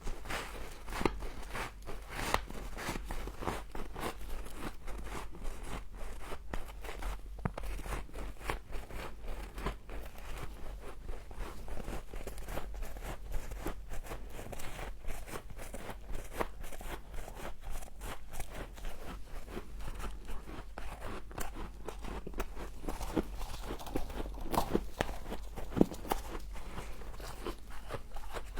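A person biting and chewing humidifier frost: continuous irregular crunching, many small crackling bites in quick succession.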